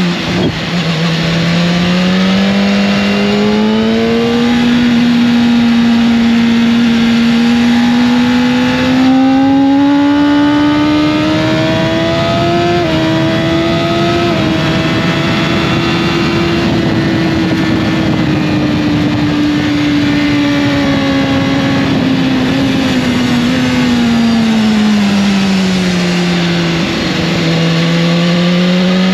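Motorcycle engine running under way, its note dropping briefly near the start, then climbing slowly and holding high through the middle before falling away near the end as the bike eases off.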